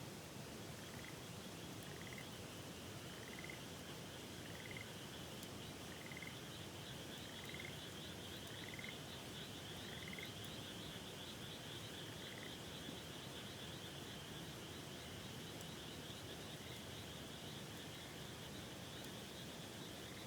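A frog calling in short notes repeated a little more than once a second, fading out after about twelve seconds. Behind it is a steady, higher pulsing chorus and the even rushing of a river.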